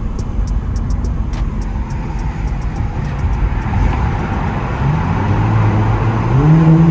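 Muffler-deleted Infiniti Q50's exhaust heard from inside the car: a steady low drone. About five seconds in, the engine note rises and steps up in pitch as the car accelerates.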